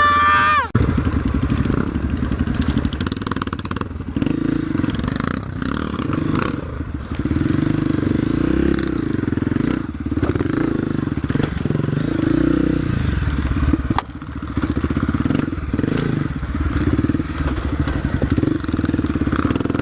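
Trail motorcycle engine running under load over rough ground, its revs rising and falling again and again, with knocks and rattles throughout.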